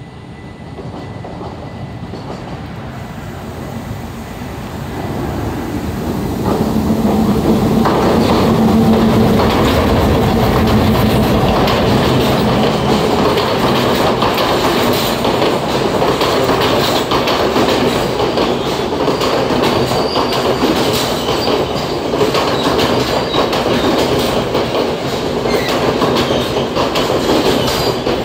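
Diesel-hauled express train approaching and running past a platform, growing louder over the first seven seconds as the locomotive's engine drone passes, then the coaches rattling by with wheels clicking over the rail joints and some high wheel squeal near the end.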